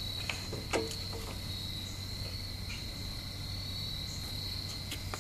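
Steady high, thin insect trill, typical of crickets, over a faint low hum, with a few small clicks in the first second.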